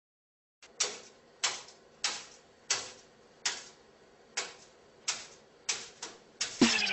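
A parrot jumping on a hard surface: about ten sharp taps, mostly a little under a second apart. Electronic music with a strong beat comes in near the end.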